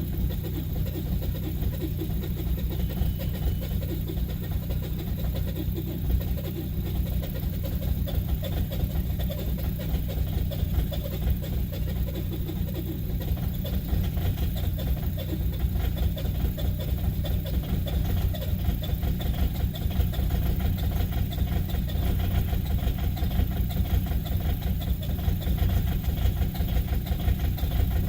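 Engine idling steadily after a cold start, with a low, even rumble that grows slightly louder over the stretch.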